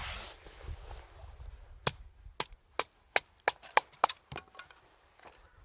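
A run of sharp wooden clicks and knocks, about a dozen over roughly three seconds, from a knife working a small stick of wood.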